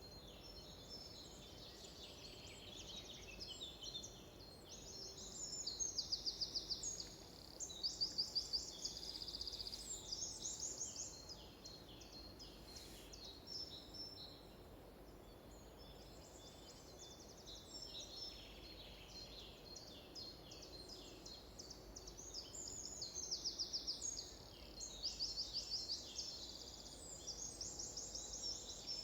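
Several songbirds singing, with fast trills and chirps overlapping. The loudest songs come in a cluster about a third of the way in and again near the end.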